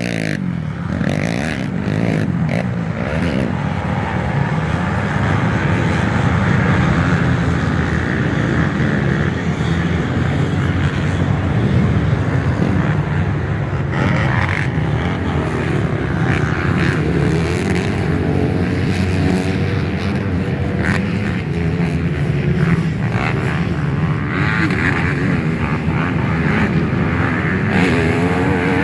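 Several motocross bikes racing together, engines running hard, their pitch rising and falling as riders rev through the gears, with no break.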